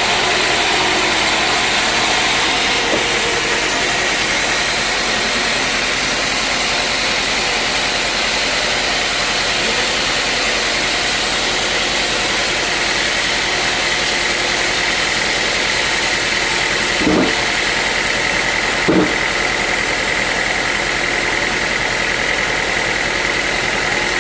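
Sawmill machinery running steadily while sawing teak logs: a constant mechanical noise with a high whine running through it. Two brief louder sounds come near the end.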